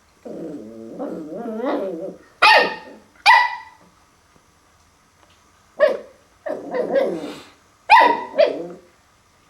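A puppy barking at his own reflection in a mirror. Two drawn-out grumbling vocalisations alternate with five sharp, loud barks, some of them in quick pairs.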